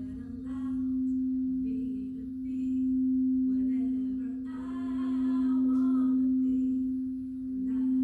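Singing bowl ringing with one steady low tone that swells and fades in slow pulses, as when the rim is rubbed continuously. A fainter wavering voice-like sound rises and falls over it.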